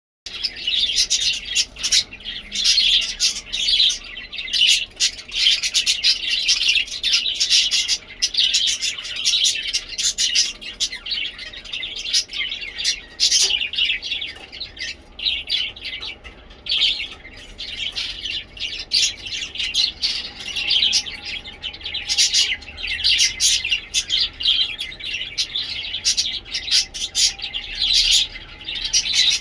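Budgerigars (budgies) chirping and warbling continuously, a dense stream of high, rapid chirps from more than one bird.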